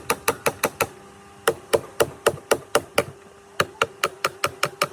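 A hammer tapping on a metal part, struck in quick repeated blows at about four or five a second. The blows come in three runs with short pauses between them, and the metal rings faintly after the strikes.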